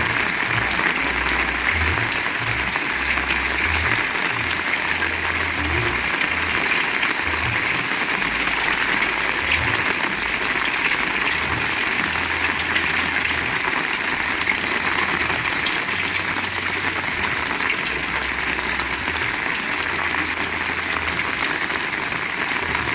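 Heavy rain pouring down steadily, a dense even hiss, with irregular low rumbles of wind buffeting the microphone.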